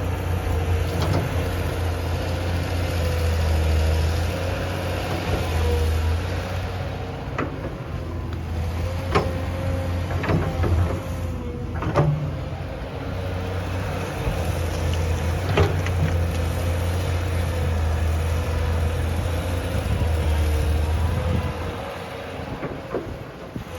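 A large vehicle engine running steadily, with scattered short clicks and knocks over it.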